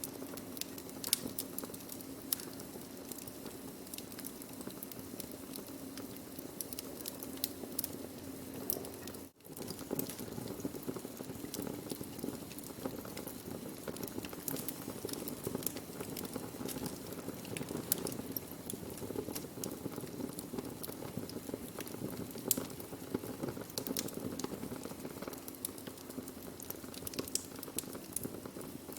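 Wood fire burning: a steady low rush of flames with frequent sharp crackles and pops of burning wood. The sound cuts out for a split second about nine seconds in.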